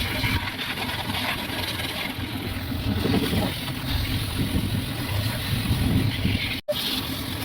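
A motor running steadily with a rough low rumble and hiss, cut off for an instant near the end.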